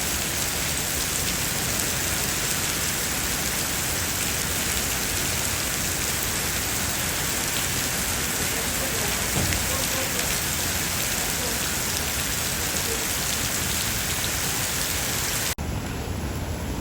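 Heavy rain falling steadily, a dense even hiss. Near the end it changes suddenly to a duller sound with more low rumble.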